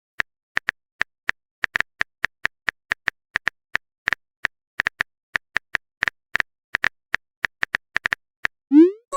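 Phone keyboard typing sound effect: a run of short, irregular taps, about three to four a second. Near the end comes a quick rising swoop, like a message being sent.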